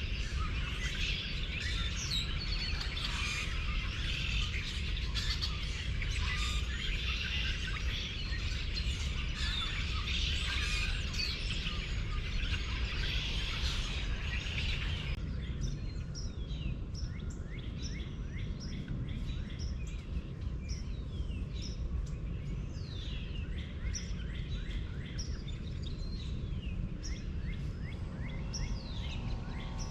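Many birds chirping and calling at once, a dense chorus of quick rising and falling notes that thins out about halfway through, over a steady low rumble.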